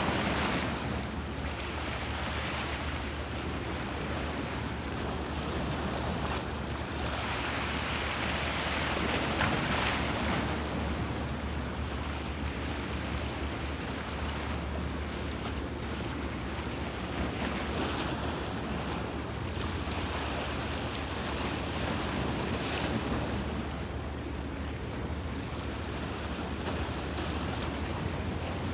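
Bosphorus sea waves washing against the shore: a continuous rush of water that swells and eases, loudest about a third of the way in. Wind buffets the microphone over a steady low rumble.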